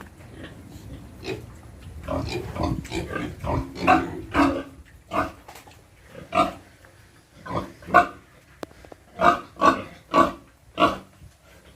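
Pigs grunting: a run of short, pitched grunts, packed close together about two to five seconds in, then coming one by one at irregular intervals.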